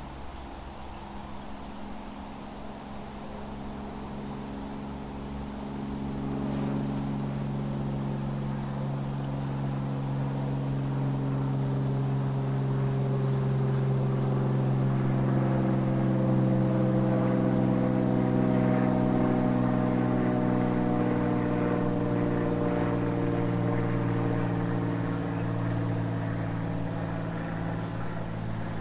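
Engine drone passing by, slowly growing louder over several seconds, then gradually fading, its pitch falling slightly as it goes past.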